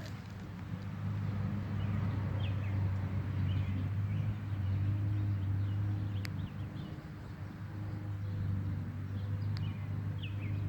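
A steady low machine hum, with faint short high bird chirps scattered over it, more of them near the end.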